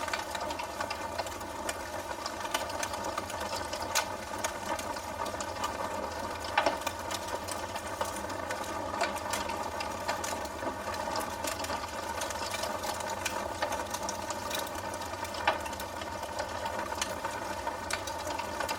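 Wood fire burning in a fireplace, crackling, with scattered sharp pops over a steady hiss and hum; the loudest pops come about a third of the way in and again near the end.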